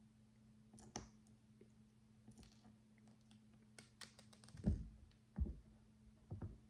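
Micro building bricks being handled and pressed together: scattered small plastic clicks and taps, then three duller knocks in the second half.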